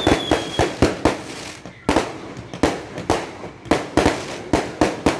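Fireworks going off in a rapid, irregular string of sharp bangs, about two to three a second, with a high falling whistle fading out in the first half-second.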